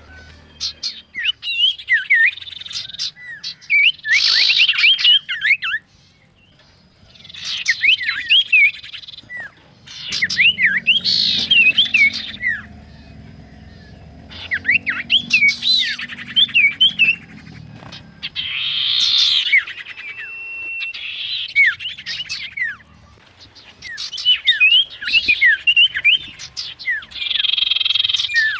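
An iora (cipoh) in full song: bursts of fast chirps and quick up-and-down whistled notes, each phrase a second or two long, with short pauses between.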